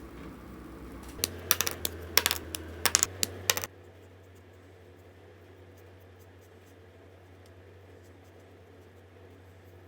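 A flurry of sharp clicks and taps from acrylic markers being handled, lasting about two and a half seconds, then only a faint steady hum.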